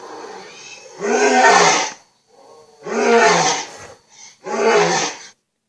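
Dinosaur roar sound effects: three T. rex-style roars, each about a second long.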